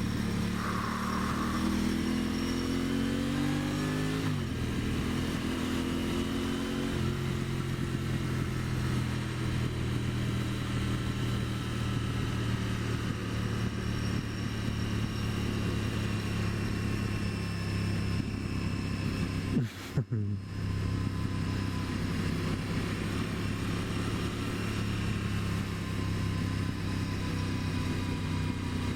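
Aprilia Tuono 660's parallel-twin engine under way, pitch climbing then dropping sharply at a gear change about four seconds in, climbing again, then running steadily with its pitch slowly falling. There is a brief dip in the sound about twenty seconds in.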